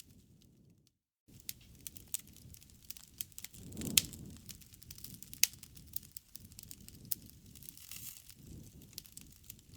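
Wood campfire crackling, sharp pops and snaps over the low rush of the flames, the loudest pop about four seconds in. The sound cuts out completely for a moment about a second in.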